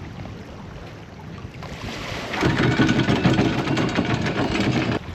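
Anchor chain running out over the bow windlass, a dense metallic rattle that starts about two seconds in, builds, and cuts off suddenly near the end as the extra length of chain is let out.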